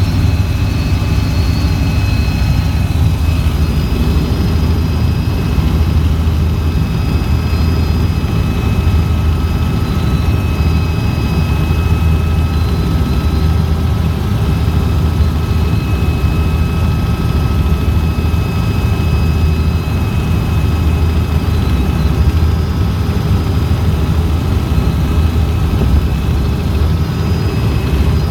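Helicopter in flight: a steady, loud low rotor and engine rumble with a constant high turbine whine over it.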